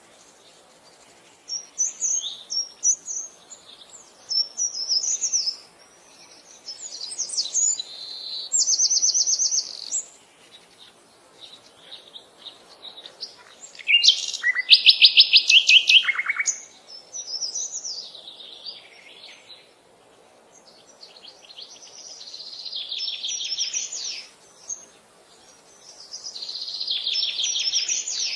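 Birds singing: a series of high chirping phrases and fast trills with short pauses between them, the loudest burst of rapid repeated notes about halfway through.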